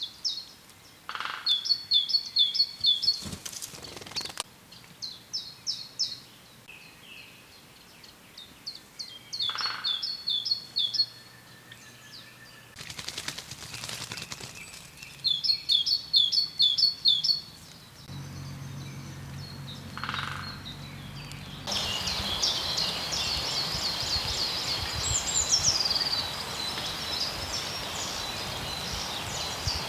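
Small songbirds singing: one bird repeats short, fast, high trilled phrases of about a second and a half, every few seconds. About two-thirds of the way in, a steady noisy background sets in and denser, overlapping birdsong follows.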